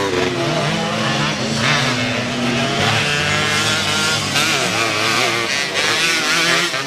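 Several motocross dirt bikes racing together, their engines revving up and down over one another as they accelerate and back off around the track.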